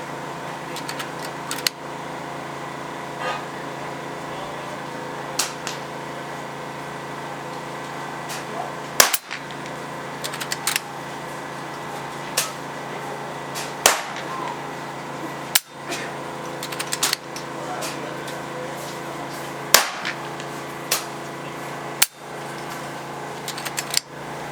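PCP air rifles firing, each shot a sharp crack, about five loud ones a few seconds apart and fainter shots from neighbouring rifles in between, over a steady hum.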